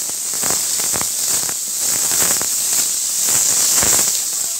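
Pork pieces and onion frying in hot oil in a metal wok: a steady high sizzle scattered with crackles, and a metal spatula scraping and stirring against the pan.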